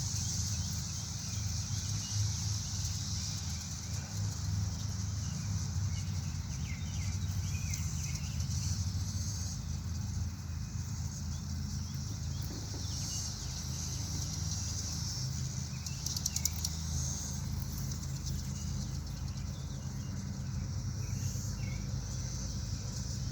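Chorus of periodical cicadas singing: a steady high-pitched drone from many insects at once, at the peak of their emergence, over a low rumble. A short, louder buzz stands out about sixteen seconds in.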